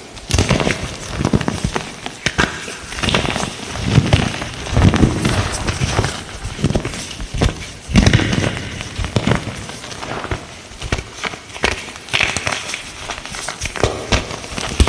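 Light green gym chalk being crushed, giving a run of crisp, crunchy crackles at an irregular pace, many with a dull thud beneath.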